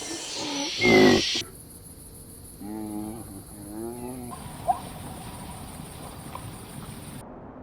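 An animal's loud pitched call about a second in, then, after an abrupt cut, two shorter wavering calls and one sharp click.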